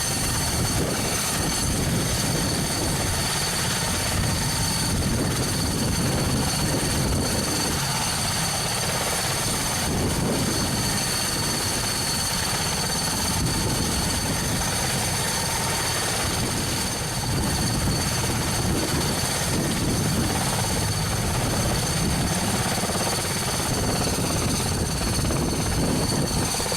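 Mi-26 helicopter's two turboshaft engines running on the ground during warm-up before takeoff: a steady high turbine whine over a deep, even rumble.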